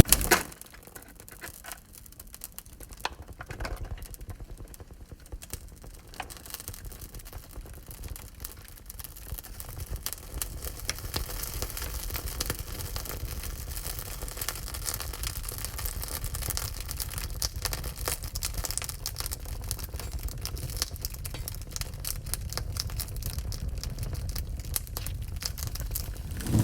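Wood fire crackling in a wood-burning stove: scattered sharp pops and snaps over a low rumble of the flames, which grows a little louder after about ten seconds.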